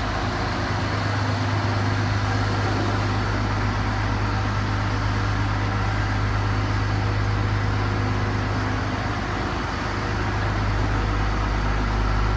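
A heavy vehicle's engine running steadily with a low, constant hum.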